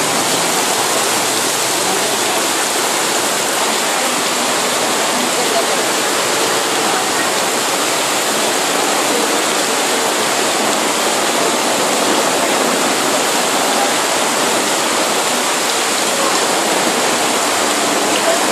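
Very heavy rain pouring onto a flooded street, a loud, steady, dense hiss that does not let up.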